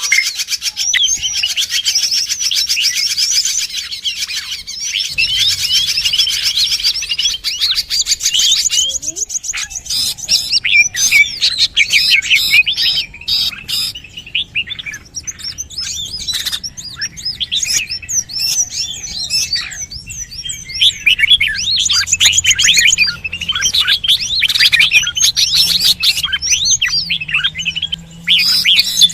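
Bird-lure call recording: many small birds chirping and trilling at once in a dense, busy chorus of rapid high notes, with a brief lull about nine seconds in.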